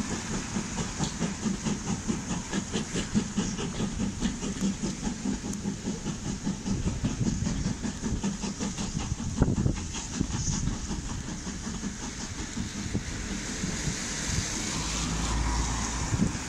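Steam-hauled train of passenger coaches running beneath a bridge and away, the wheels clattering rhythmically over the rail joints. The clatter stops about ten seconds in, leaving a steadier rumble as the train draws off.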